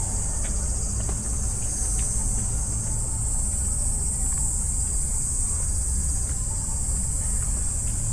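A chorus of cicadas droning: a continuous high buzz that holds steady throughout, over a low, steady rumble.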